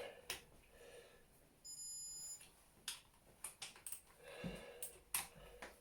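Scattered light metallic clicks of a torque wrench working on the engine's connecting-rod big-end bolts as they are tightened to torque, with a short high electronic beep about two seconds in.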